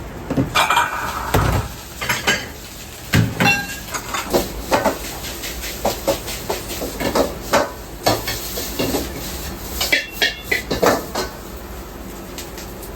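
Kitchen dishes, pots and utensils clattering. A run of irregular knocks and clinks, some ringing briefly, thinning out near the end.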